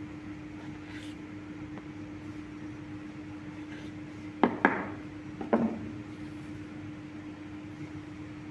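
A steady hum, with three sharp clinks of hard kitchen objects knocking together in quick succession about four and a half to five and a half seconds in.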